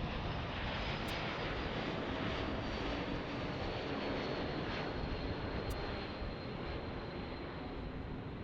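Embraer E2 jetliner's engines: a steady rushing jet noise with a thin high whine above it, easing off slightly near the end.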